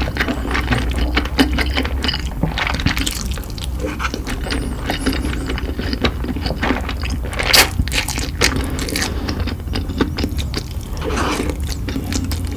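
Close-miked eating sounds: a quick, irregular run of wet chewing clicks, smacks and crunches, with a steady low hum underneath.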